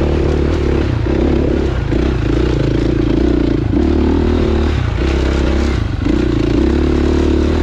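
Dirt bike engine running as it rides a trail, the throttle easing off and opening again several times so the engine note dips and picks back up.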